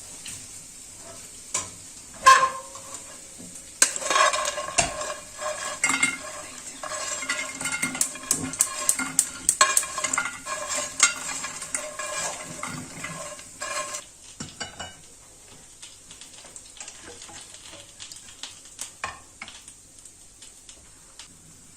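Food frying in a pan while a utensil stirs and scrapes it, with quick metal clinks ringing against the pan over a steady sizzle. About two-thirds of the way through, the stirring stops and the sizzle goes on more faintly with a few stray ticks.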